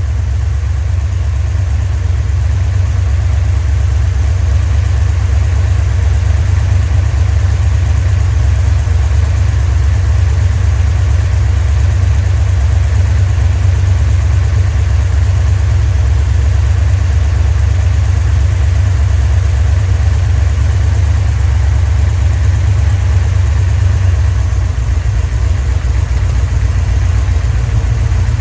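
Freshly rebuilt 318 cubic-inch (5.2 L Magnum) V8 idling steadily with a deep, even rumble, running on a special-grind Comp camshaft.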